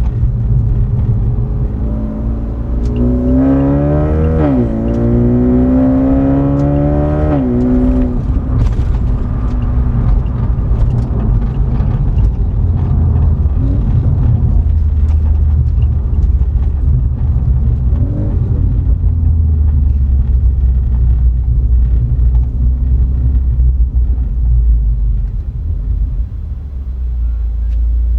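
BMW 330i's B48 turbocharged 2.0-litre four-cylinder accelerating, its note rising through two gears with a quick drop at each upshift. It then settles into a low, steady drone while cruising.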